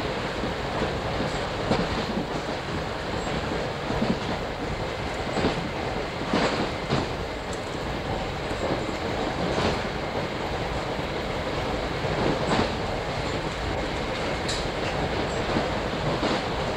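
Commuter train heard from inside a moving passenger car: a steady rumble from the wheels and running gear, with irregular sharp clacks of the wheels over the track every second or few.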